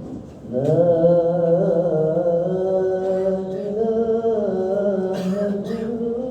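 A man's voice chanting the adhan, the Islamic call to prayer, in one long melodic phrase with slow ornamented turns. It comes in about half a second in, after a short breath.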